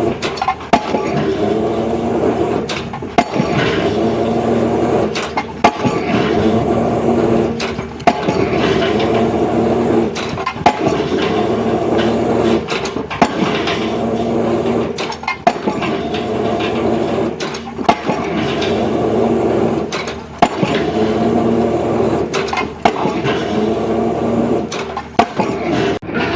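Pile-driving rig: its engine runs steadily while the hammer strikes the pile with a sharp bang about every two and a half seconds.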